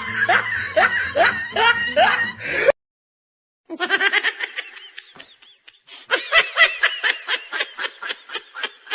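Laughter sound-effect clips. A rhythmic laugh cuts off abruptly a little under three seconds in. After about a second of silence, a second clip of rapid, repeated laughter starts.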